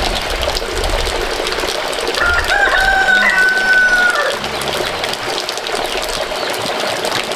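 A rooster crows once, a held call of about two seconds in the middle, over a steady background din with chickens clucking.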